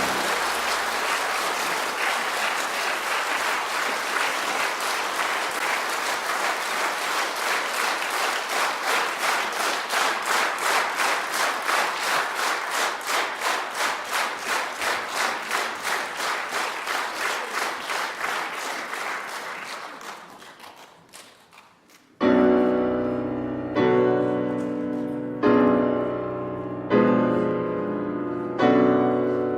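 Audience applauding, settling into rhythmic clapping in unison at roughly two to three claps a second, which dies away about twenty seconds in. A piano then starts playing slow, spaced chords.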